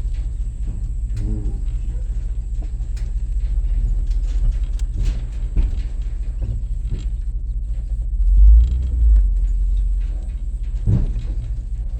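A vehicle's engine running steadily with a low rumble as it drives over rough ground. Scattered rattles and knocks come through, and two heavy bumps land about two-thirds of the way in.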